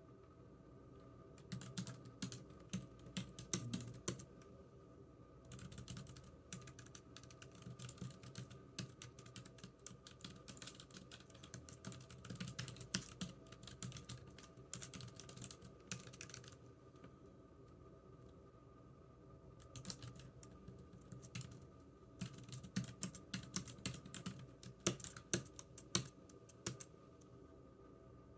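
Typing on a computer keyboard: quick runs of key clicks in bursts of a few seconds, broken by short pauses of a second or two.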